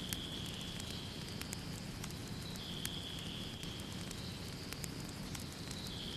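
Wood fire in a fireplace crackling: irregular sharp pops and clicks over a steady low rumble of flames. A steady, thin, high-pitched tone runs underneath.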